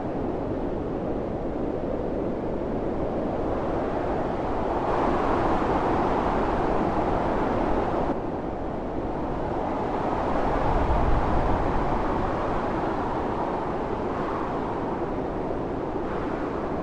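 Howling blizzard wind with blowing snow, a steady rush that swells into stronger gusts about five seconds in and again around ten seconds, dropping back suddenly in between.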